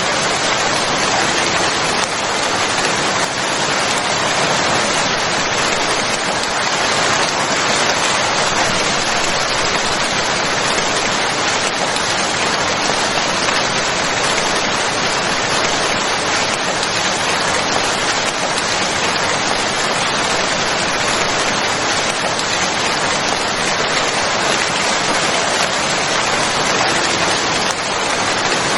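Steady, even rainfall: a continuous hiss of rain on a surface with no single drops or strikes standing out.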